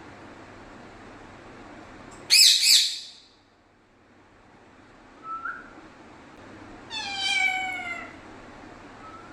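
Pet parrot calling: a loud, shrill two-part squawk about two and a half seconds in, a short rising whistle near the middle, and a longer whistled call that falls in pitch near the end, over a steady background hiss.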